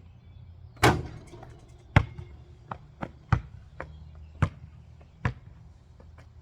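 A basketball shot strikes loudly about a second in, then the ball bounces on hard ground, the bounces coming closer together as it settles.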